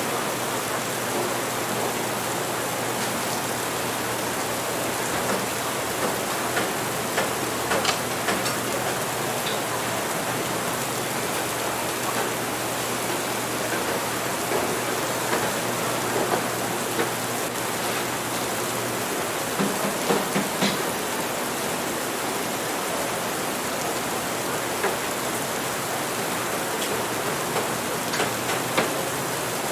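Steady rain hiss with scattered light clicks and taps, a small cluster of them about two-thirds of the way through. A faint low hum underneath stops at about the same point.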